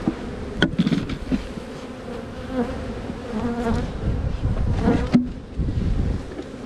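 Honeybees buzzing in a steady hum around open hives, with a few sharp knocks from hive equipment being handled.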